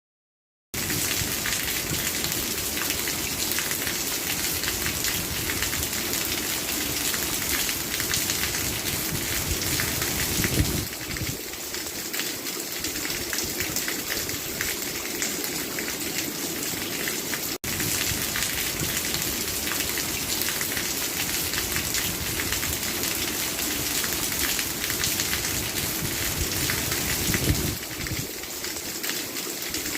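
Steady heavy rainfall, a dense even hiss of drops hitting surfaces. It starts after a brief moment of silence and cuts out for an instant about halfway through.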